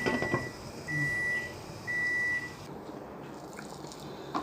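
Microwave oven's end-of-cycle beeper: a click, then three evenly spaced steady beeps about a second apart, signalling that the cooking time is up.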